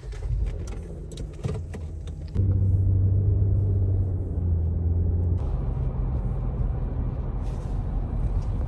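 A car driving, its engine and road noise making a steady low rumble with a hum. The rumble gets abruptly louder about two and a half seconds in and changes again about five and a half seconds in.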